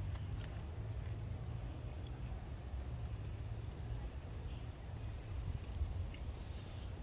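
Crickets chirping in a steady, even rhythm of short high-pitched pulses, several a second, over a low background rumble.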